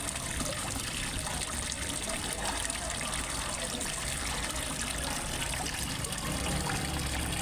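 Water trickling and splashing steadily into a fish pond.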